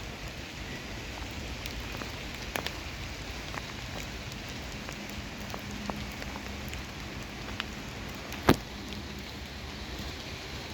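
Steady rain falling, with scattered single drops ticking close by and one sharp, louder tap about eight and a half seconds in.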